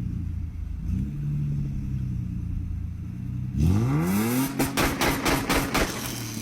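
Car engine idling steadily, then revved hard about three and a half seconds in, its pitch climbing fast. A rapid, uneven string of loud sharp cracks and bangs follows.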